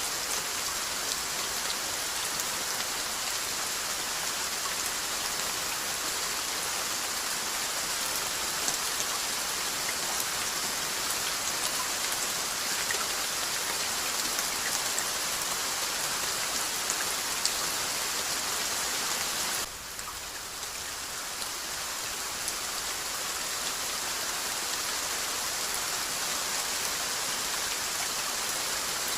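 Steady rainfall, a continuous hiss flecked with the ticks of individual drops striking a surface. About two-thirds of the way in it suddenly falls quieter, then builds back up over a few seconds.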